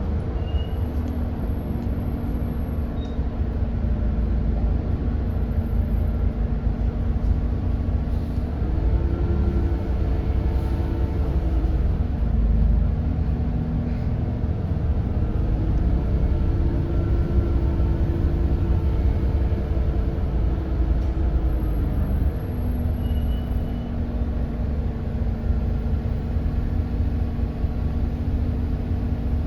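Edison Motors Smart 110G natural-gas city bus's Doosan GX12P engine running under way, heard from inside the cabin as a heavy low rumble. Its note holds steady, then falls and rises again several times as the bus drives.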